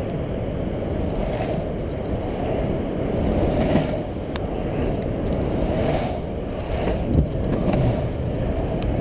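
Steady low rumble of longboard wheels rolling downhill on pavement, mixed with storm wind buffeting the camera microphone, with a brief knock about seven seconds in.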